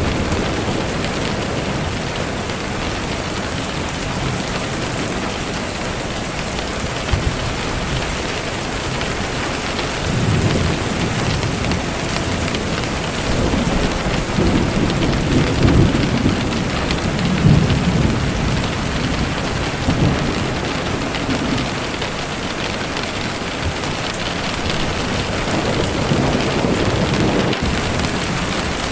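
Steady rain falling, with low rumbles of thunder swelling through the middle.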